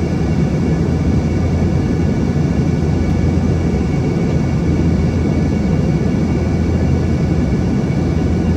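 Embraer ERJ-145 cabin noise in flight: a steady rumble from the rear-mounted Rolls-Royce AE 3007 turbofans and airflow, with a steady engine whine above it.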